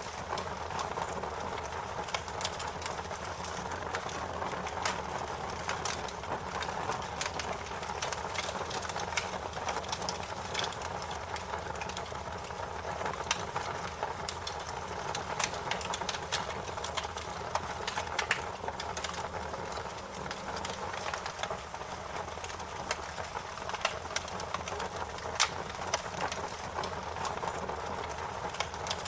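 Fire crackling: irregular sharp pops and snaps over a steady hiss and low rumble.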